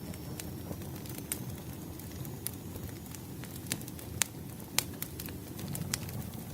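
Firewood fire crackling: scattered sharp pops and snaps of burning logs over a steady low rumble, with the loudest pops a little past the middle.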